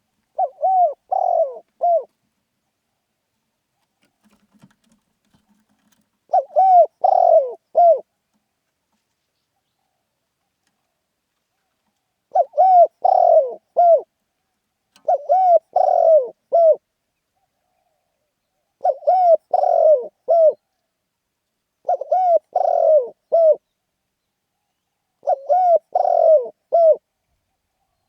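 Spotted dove cooing: seven short phrases of several coos each, repeated every three to six seconds.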